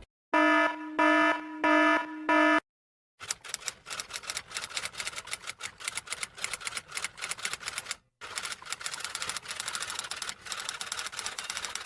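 Four short pitched electronic beeps, then a mechanical typewriter typing: rapid irregular key strikes with a brief pause partway through.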